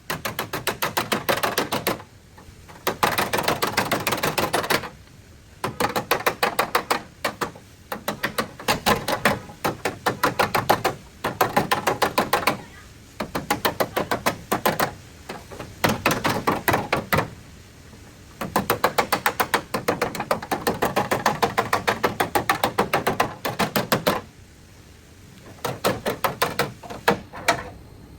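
Hammer blows on car-body sheet metal, in quick runs of sharp knocks, several a second, broken by short pauses.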